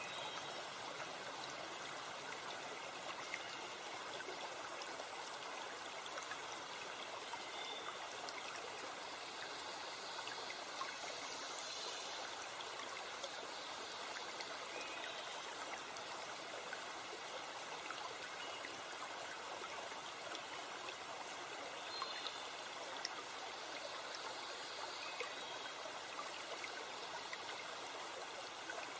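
Forest stream and waterfall running steadily, with a few faint bird calls now and then.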